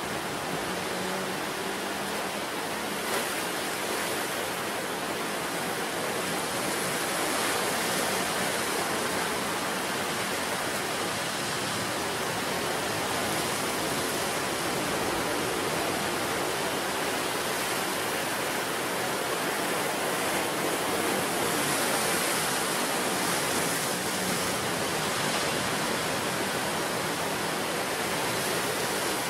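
Steady rush of sea surf breaking on the shore, a continuous wash of water noise that swells gently about a third of the way in and again about three quarters through.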